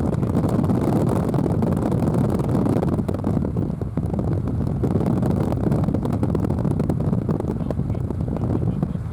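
Strong, gusty outflow wind buffeting the microphone: a loud, continuous low noise that flutters irregularly without letting up.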